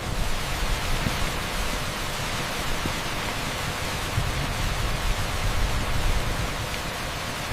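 Torrential rain pouring on an asphalt street: a dense, steady hiss with no separate drops standing out.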